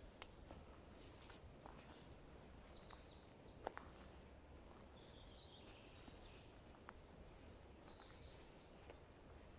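Faint forest ambience with a songbird singing twice, each phrase a quick series of high notes falling in pitch, about a second and a half long. A few faint clicks and ticks sound in between, the sharpest a little before the middle.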